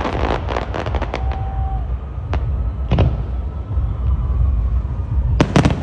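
Fireworks going off: a quick run of crackling pops, then single booms about two and three seconds in, and two loud bangs close together near the end, over a steady low rumble.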